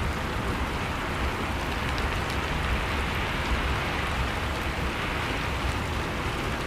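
Steady rushing noise of a winter storm, with faint scattered crackles of a wood fire.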